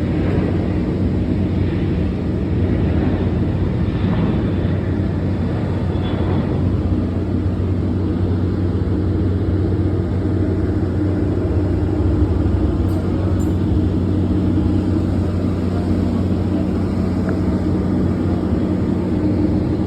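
Boeing 777 air-conditioning pack running, with its bay exposed: a steady rush of air over a low, even hum of several steady tones.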